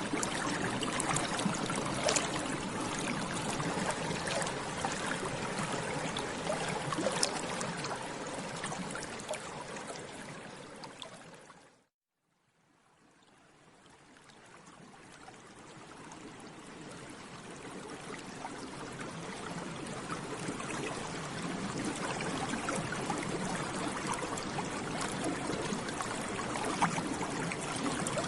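Water bubbling, a continuous fizz of small bubble pops. It fades out to silence about twelve seconds in, then slowly fades back in.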